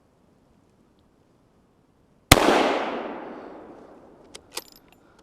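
A single gunshot from a deer-hunting firearm about two seconds in, its report trailing off over a couple of seconds, followed near the end by a few sharp clicks.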